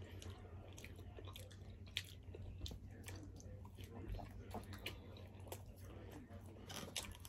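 Quiet close-miked chewing of Chinese takeout food, with many small scattered mouth clicks and smacks over a faint low hum.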